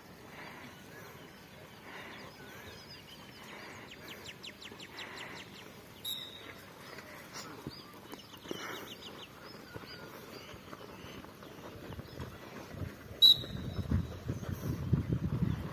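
Birds chirping, with two quick high trills, over faint open-air background. A sharp click about thirteen seconds in is the loudest sound, and a low rumble of thuds follows near the end.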